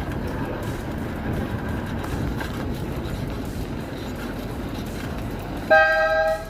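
Steady road and wind rumble while riding, then near the end a loud two-tone vehicle horn honks once, briefly.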